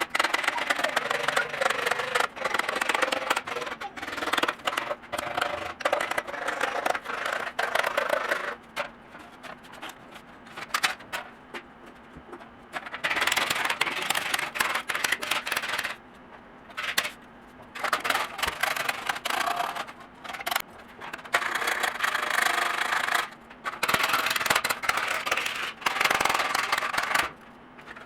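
Scraping and rubbing on a metal sill plate as it is cleaned of rust and grime. The sound comes in irregular stretches of a few seconds each, broken by short pauses.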